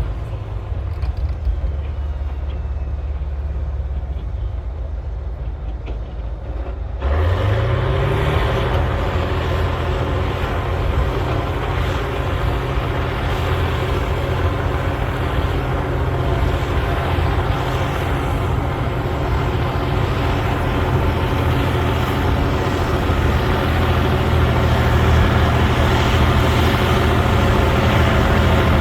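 Cat D9L bulldozer's diesel engine running, low at first, then revving up sharply about seven seconds in and holding at high throttle under load.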